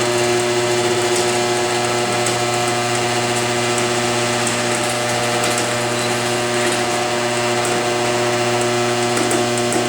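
Chamberlain HD200D garage door opener, converted to T-rail chain drive, running steadily as it moves the door: an even motor hum with the chain drive running along the rail.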